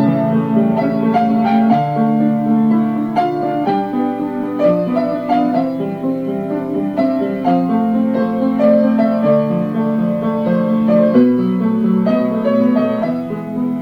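Piano playing a slow melody over held chords, the notes struck one after another.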